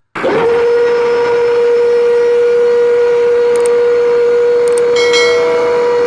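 A small electric motor running with a steady whine, starting suddenly and rising briefly in pitch before holding one pitch.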